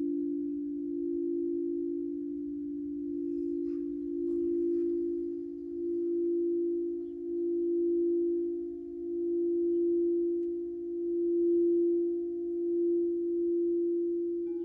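Singing bowl sounding a steady low drone of two close tones, its loudness swelling and ebbing in a slow pulse every second and a half or so.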